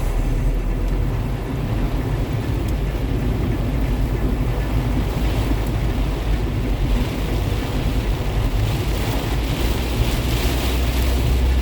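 Rain falling, a steady hiss that swells in the second half, over a low rumble of wind on the microphone.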